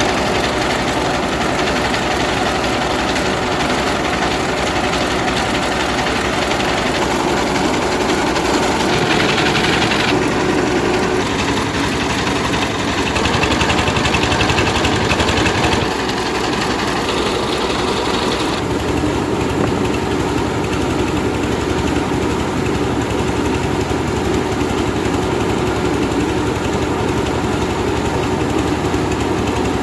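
Rice milling machine running steadily while milling half-dry paddy: a loud, continuous mechanical drone with a steady hum, its tone shifting a few times.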